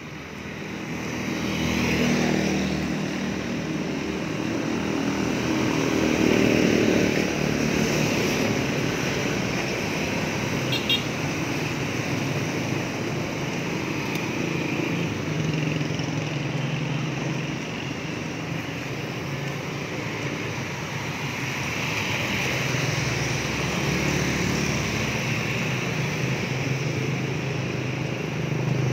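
Road traffic passing on a wet road: vehicle engines, including motorcycles, go by one after another over a steady hiss, swelling louder a few times as vehicles come close and fading again.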